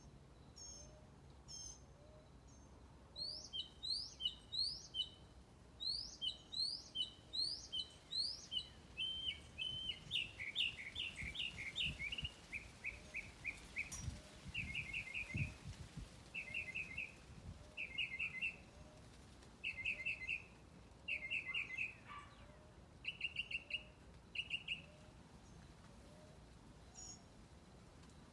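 Several birds singing: a run of rising whistled notes, then a falling series of notes, then short rapid trills repeated about every second and a half, fading out a few seconds before the end.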